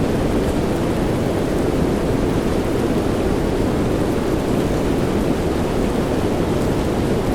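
Steady rain sound: a dense, even rush, heaviest in the low end, with no single drops or claps standing out.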